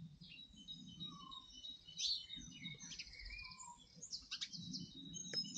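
Small wild birds singing: a faint mix of high chirps, whistles and quick trills, over a faint low background rumble.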